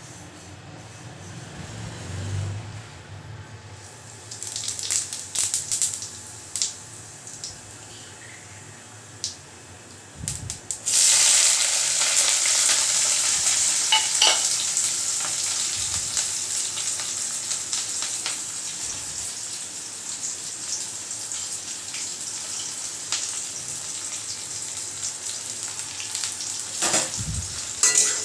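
Sliced onions and green chillies frying in a metal kadai on a gas stove. A few light clicks and knocks come first, then about eleven seconds in a sudden loud, steady sizzle starts and slowly eases off.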